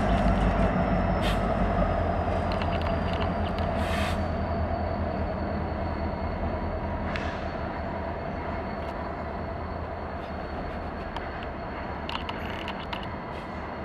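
CN SD70M-2 diesel-electric locomotive and its string of freight cars rolling slowly past, the locomotive's EMD 16-cylinder two-stroke diesel humming steadily and fading as it draws away. A faint high whine carries through, with a few sharp metallic clanks from the train.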